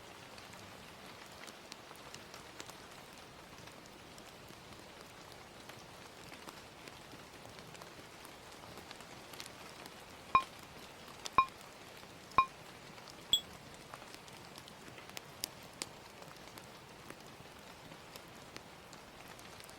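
Steady gentle rain with a timer countdown: three short beeps a second apart, then one higher beep, marking the end of the study session. A few faint clicks follow.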